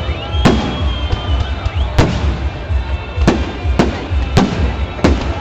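Fireworks salute going off: about six sharp bangs of bursting shells at irregular intervals, over music from loudspeakers.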